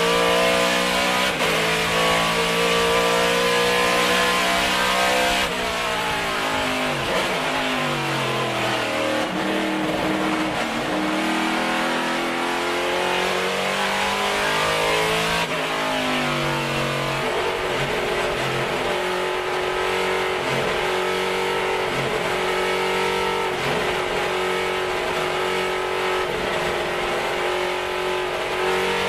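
Chevrolet SB2.2 377ci V8 race engine running loudly under load. Its pitch drops steadily a few seconds in, then climbs again about halfway through, and otherwise holds fairly steady.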